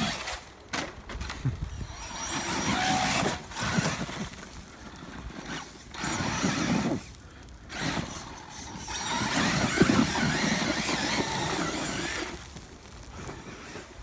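Losi LST XXL2-E 1/8-scale electric monster truck running on 6S, driven in repeated throttle bursts of a second or more with quieter gaps between: the electric motor and drivetrain whine and the tires churn loose dirt.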